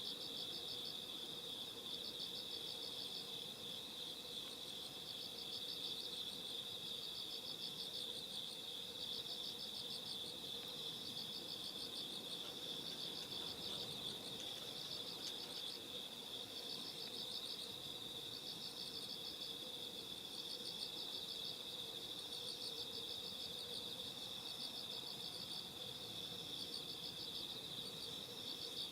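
A chorus of night-singing autumn insects: one steady high trill under rhythmic pulsed chirps that come in groups about once a second, with fainter high ticking.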